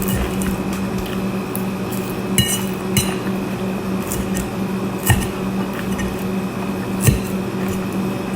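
Eating utensils clinking against a dish now and then: about four sharp clinks over a steady low hum.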